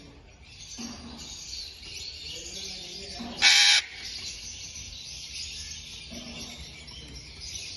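Many budgerigars chattering and chirping steadily, with one loud harsh squawk about three and a half seconds in.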